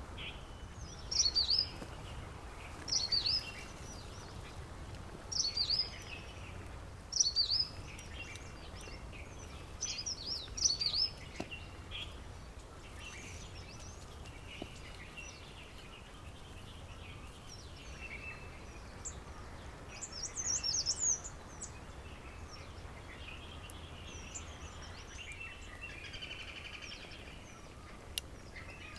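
A songbird giving short, high calls, repeated about every two seconds through the first ten seconds or so, then a longer run of high notes around twenty seconds in, with fainter birds calling over a steady low outdoor background hiss.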